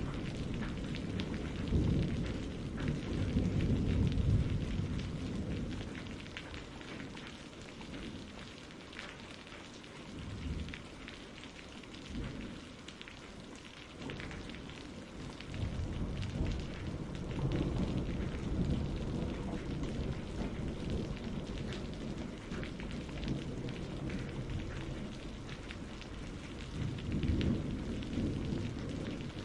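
Thunderstorm ambience: steady rain hiss with rolling thunder rumbling in low swells, strongest near the start and again later on.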